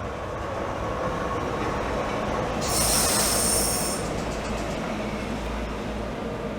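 Class 465 Networker electric train moving through the platform with a steady rumble, and a high wheel or brake squeal for about a second, about three seconds in.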